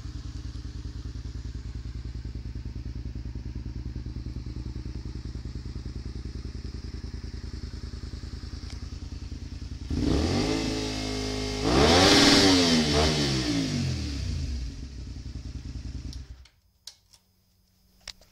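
Honda VTR250's V-twin engine idling steadily, then revved hard twice in quick succession toward the rev limiter, the second rev the louder, before dropping back to idle. The engine is switched off and cuts out suddenly near the end, leaving a few faint ticks.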